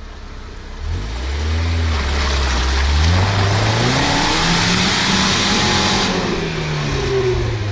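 Off-road 4x4's engine revving up about a second in and held high under load for several seconds, with a loud rushing hiss in the middle, then dropping back near the end as the vehicle tries to climb out of a rut.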